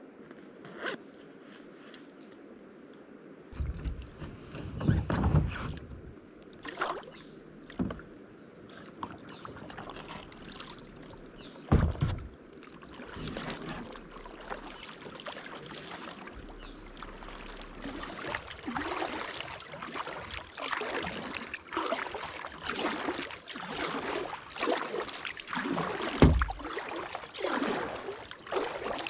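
Kayak paddling: the paddle dipping and splashing in the creek, settling after a few scattered dull knocks into steady strokes about one a second in the second half.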